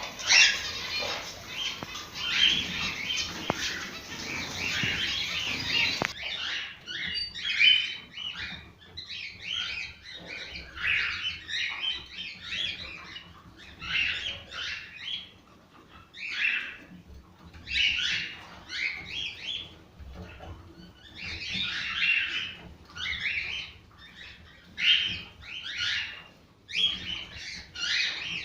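Cockatiels singing and chattering: a dense run of overlapping calls for the first few seconds, then separate whistled song phrases about a second long, repeating every second or two.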